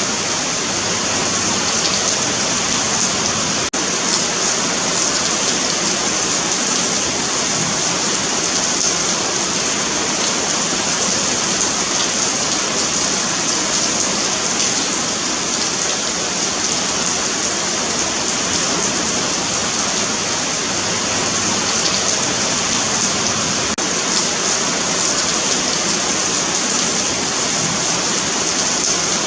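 Steady rain falling on a sidewalk, a continuous even hiss of drops on pavement.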